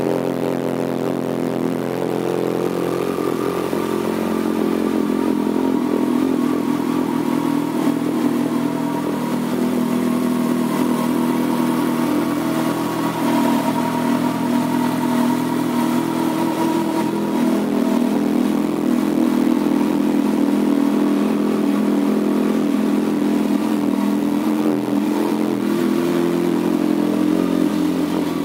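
Kawasaki Concours 14 (ZG1400) inline-four motorcycle engine idling steadily through a Two Brothers aftermarket exhaust.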